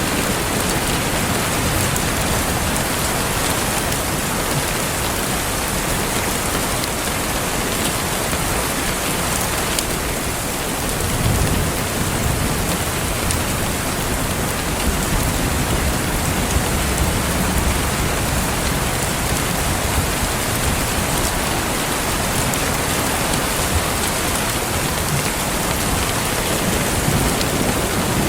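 Steady rain falling, an even hiss of many drops. A low rumble swells briefly about eleven seconds in.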